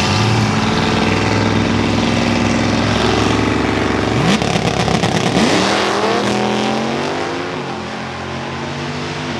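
A car engine running loudly, its pitch rising sharply as it revs about four to five seconds in, then settling again.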